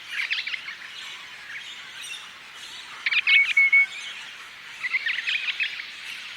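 Rosellas chattering in three short bursts of quick, high chirping notes. The first comes right at the start, the second about three seconds in and ends in a brief trill, and the third comes about five seconds in.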